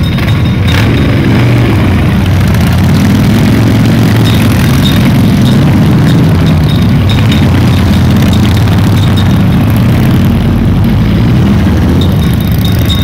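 A group of motorcycle engines running, loud and steady throughout.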